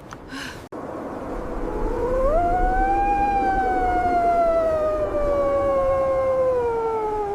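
A wolf howling: one long call that rises about two seconds in, then slowly falls in pitch.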